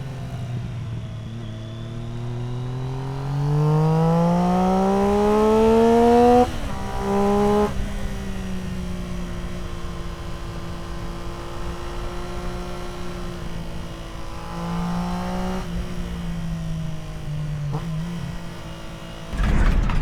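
Triumph Street Triple R's three-cylinder engine through an Arrow aftermarket exhaust, accelerating hard with a rising pitch, then dropping off abruptly at a gearshift about six seconds in and settling to a steadier run. Near the end there is a loud, brief low rumble.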